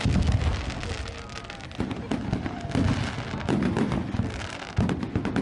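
Fireworks display: aerial shells bursting in deep booms about every one and a half to two seconds, the first right at the start, with rapid crackling in between.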